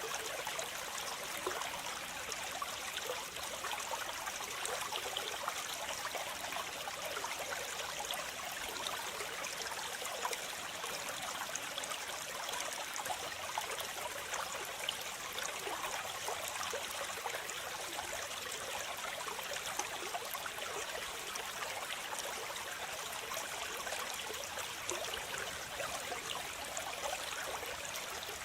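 Waterfall, with water falling and splashing in a steady, even rush and small splashes flickering through it.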